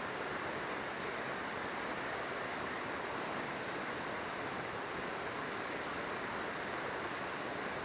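River water rushing steadily, with a faint crackle from the wood campfire about two-thirds of the way in.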